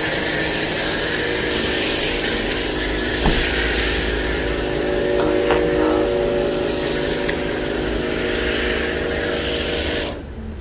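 Kärcher K2 Cordless pressure washer's pump running steadily under the hiss of snow foam spraying from a foam lance, cutting off suddenly near the end.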